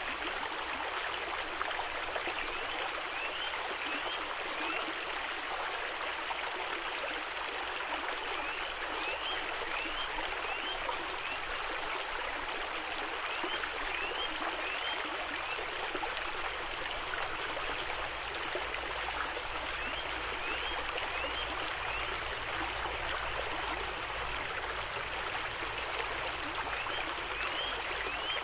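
Creek water running steadily over stones, an even rushing and gurgling flow. Short, high rising chirps come in small groups every few seconds over the flow.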